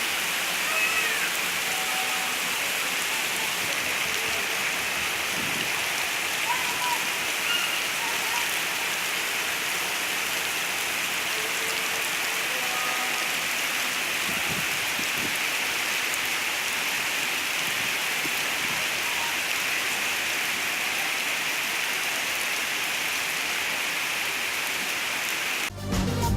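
Steady heavy rain pouring down on hard surfaces, an even hiss that holds level throughout. In the last second, music with a drum kit cuts in over it.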